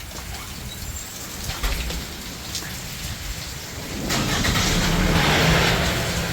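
Rain falling steadily, with a car's engine running under it; about four seconds in the sound jumps sharply louder.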